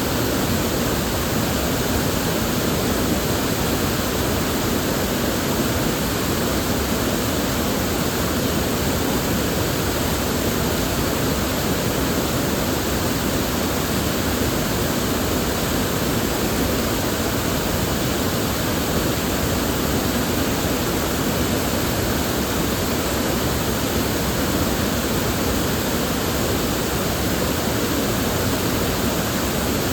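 River water flowing steadily, a constant rushing with no pauses or changes.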